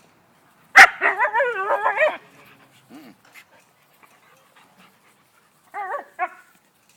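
Sled dog vocalizing in play: a sharp bark about a second in, then a little over a second of wavering, whining yowls, and two short whines near the end.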